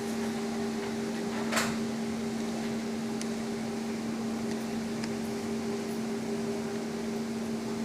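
A steady low electric hum, with a single sharp click about a second and a half in.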